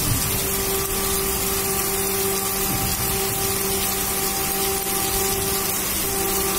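Heavy rain pouring steadily in a dense hiss, with a steady low hum underneath that breaks off briefly a few times.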